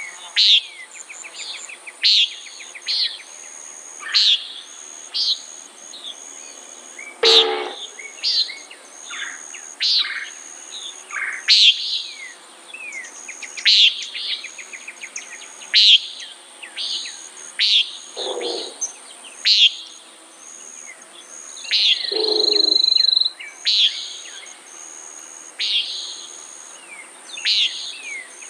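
Common nighthawk giving short, sharp calls about every one to two seconds, over a steady high insect drone. About three-quarters of the way through, a longer, even note lasts about a second.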